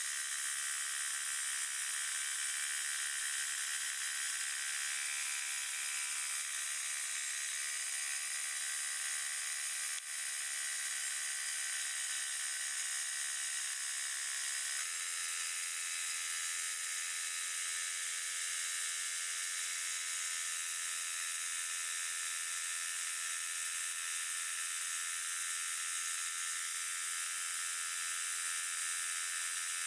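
Portable sawmill running steadily while sawing a log, a continuous machine whir whose pitch shifts slightly about halfway through.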